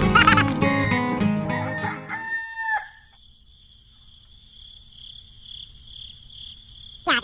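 A rooster crowing over music, the crow ending about three seconds in. After it, crickets chirp faintly and steadily.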